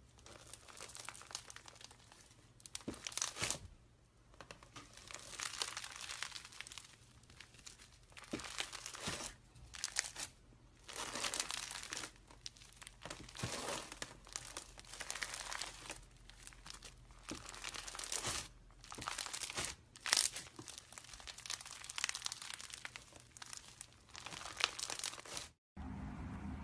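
Slime being squeezed and stretched by hand, crackling in irregular bouts every second or two. It cuts off shortly before the end.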